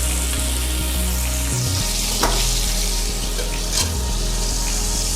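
Bacon-wrapped chicken breast sizzling steadily in butter and olive oil in a frying pan, with two light clicks about two and four seconds in.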